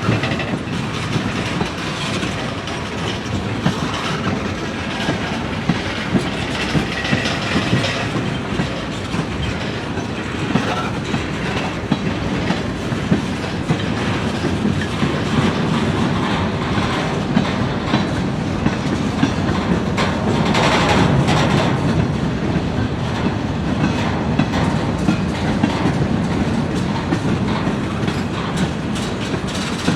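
Freight train cars rolling past, a steady rumble with the wheels clicking over the rail joints; it grows a little louder about twenty seconds in.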